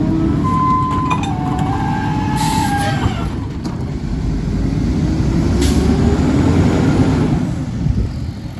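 Mack LE garbage truck's diesel engine running hard while the Heil rear-loader packer compacts trash, with high squealing from the packing mechanism in the first few seconds. Two short hisses of air cut through, and the engine revs up about five seconds in, then drops back near the end.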